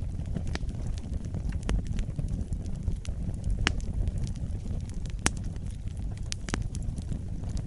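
Wood fire burning in a fireplace: a steady low rumble of the flames with irregular sharp crackles and pops, the loudest a little past halfway.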